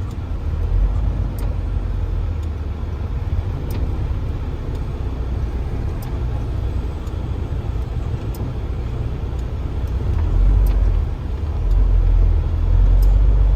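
Truck engine and road rumble heard from inside the cab as the car hauler rolls slowly through deep snow. The low rumble swells about ten seconds in, and a faint tick comes about every two seconds.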